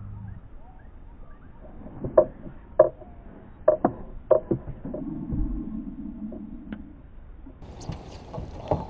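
A series of sharp knocks, about six over two seconds, as gear bumps against a kayak, then about two seconds of low rushing noise. Faint bird chirps at the start.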